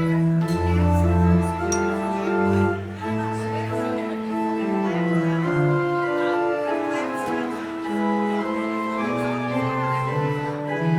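Organ playing held chords over a moving bass line, the postlude at the close of a church service.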